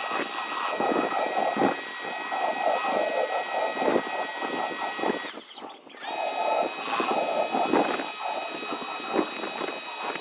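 Powrite electric pressure washer running, its motor and pump whining steadily under a rough hiss of water jetting onto the walkway. About five seconds in the motor winds down and cuts out briefly, then starts up again.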